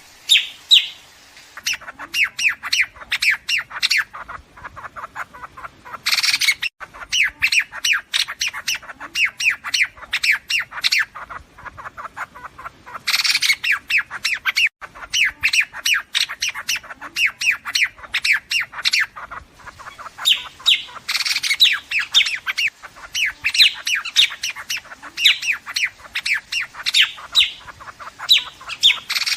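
Liếu điếu birds giving rapid runs of short, harsh chattering calls in bursts of several seconds, with brief pauses between bursts; a recording used as a lure to call a flock.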